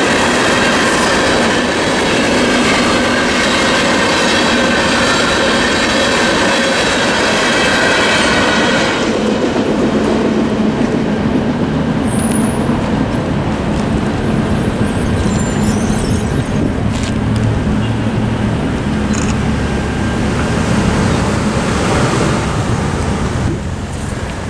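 Freight train cars rolling past over the rails, with wheel squeal, until the last car clears about nine seconds in. After that the sound drops to a lower rumble.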